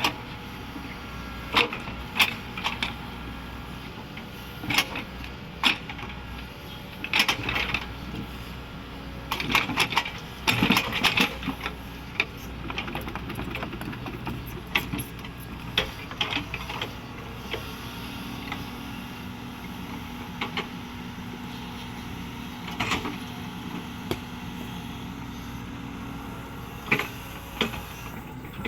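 Caterpillar 307E2 mini excavator working, its engine humming steadily under irregular sharp knocks and clatters that come thickest in the middle of the stretch.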